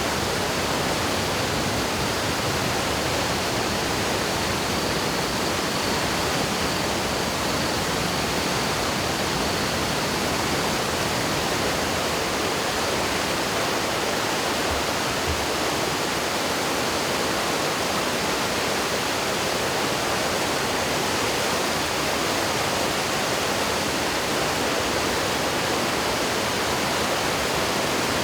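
The Yoshida River in flood after a typhoon, its swollen water rushing in a steady, loud roar of white noise.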